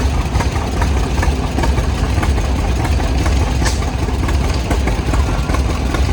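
Antique farm tractor engines running at low speed, a steady, loud low rumble.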